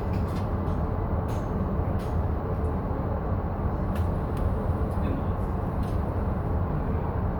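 Steady low electrical hum of a stationary E233 series 7000 electric train waiting at a station platform, with a few faint clicks.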